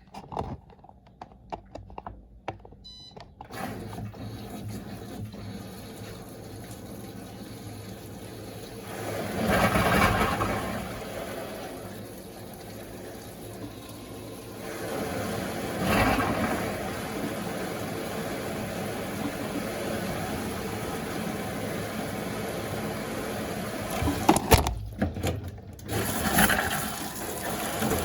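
Electrolux LTA15 washing machine filling its drum with water: a few clicks, then from about three seconds in a steady rush of water that swells twice, with a few sharp knocks near the end.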